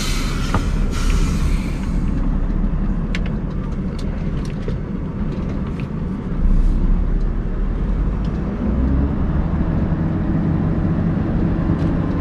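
Scania R580 truck's V8 diesel engine running steadily, heard from inside the cab, with a short hiss in the first second or two and the engine note rising a little in the last few seconds.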